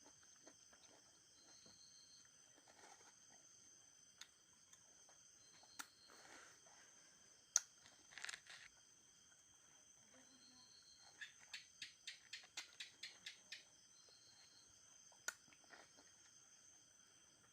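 Near silence with faint, scattered mouth clicks and smacks of someone eating mango, including a brief run of about a dozen quick clicks a little past halfway. A faint steady high-pitched hum sits underneath.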